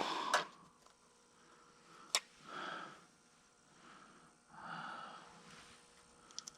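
Two soft breathy exhales or sighs, with a single sharp click about two seconds in and faint ticks near the end.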